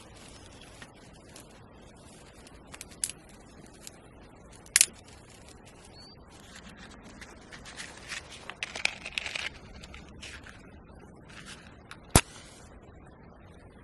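Rustling and scraping handling noises with a few sharp cracks or snaps; the loudest crack comes near the end.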